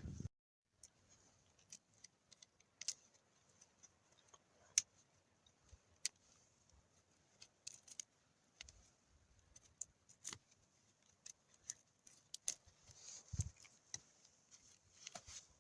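Faint, scattered sharp clicks and small taps at irregular intervals, with a few louder ticks and one soft low thud about 13 seconds in.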